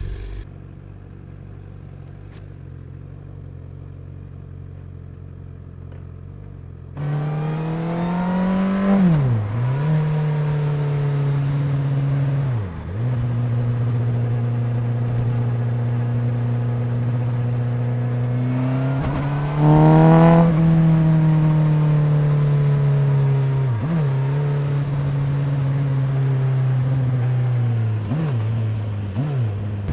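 2017 Honda CBR1000RR's inline-four engine and exhaust on a ride: a quieter low steady running at first, then about seven seconds in it opens up loud, rising in pitch and settling into a steady note. It rises again briefly around twenty seconds in, and the pitch dips sharply for a moment several times.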